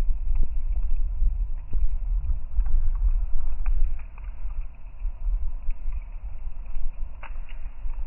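Uneven low rumble buffeting the microphone, like wind, with a few faint scattered ticks, the clearest about seven seconds in.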